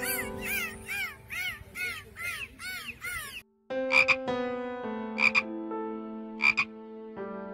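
Dolphin whistling: about eight quick chirps, each rising and falling in pitch, with clicks. After a brief gap, a tree frog croaks three times, about a second apart, over steady background music notes.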